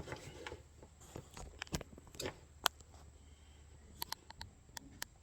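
Faint, scattered light clicks and knocks of small objects being handled, a few sharp ticks among them, with no steady sound behind.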